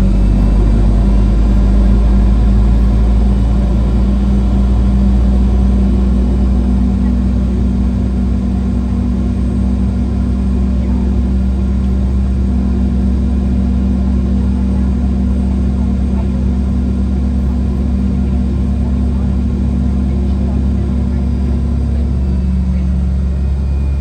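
Inside the cabin of a taxiing Boeing 717: a steady low rumble and hum from its rear-mounted Rolls-Royce BR715 turbofans at low thrust, a little louder in the first few seconds.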